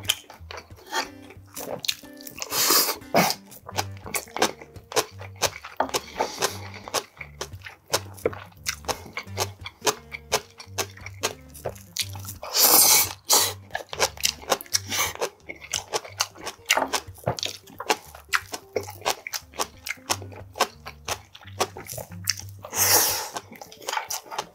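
A man chewing and crunching mouthfuls of food close to the microphone, with many small wet mouth clicks and three louder bursts of noise about 3, 13 and 23 seconds in. Faint background music with a steady low beat runs underneath.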